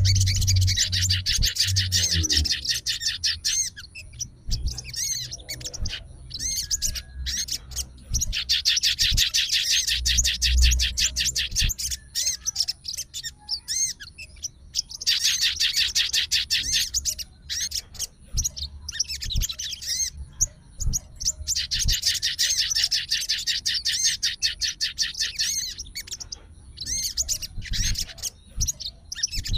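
A sogon songbird sings in long, fast, chattering bouts of a few seconds each, made of rapid high repeated notes. Shorter calls and pauses fall between the bouts.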